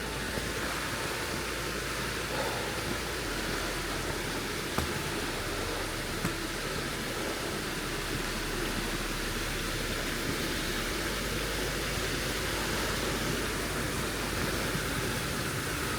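Steady, even rushing of a nearby creek, with a faint tick or two.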